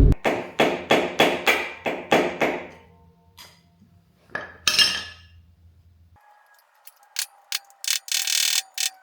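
Ratchet wrench clicking in an even series, about three strokes a second, for nearly three seconds before stopping. Scattered metal clicks and a short rush of noise follow later.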